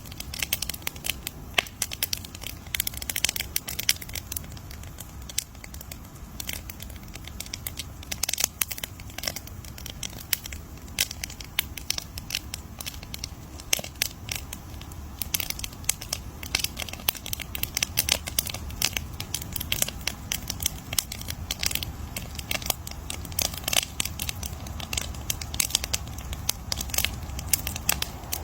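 Wood campfire crackling: dense, irregular pops and snaps over a low rumble.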